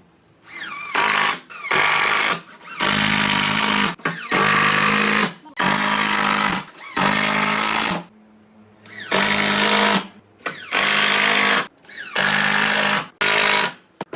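Handheld power drill-driver run in about eleven short bursts of around a second each, driving into wood with short pauses between pulls of the trigger.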